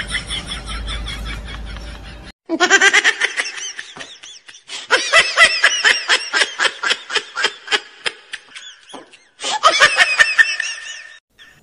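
High-pitched laughter in quick, rapid pulses, coming in three bouts that start and stop abruptly.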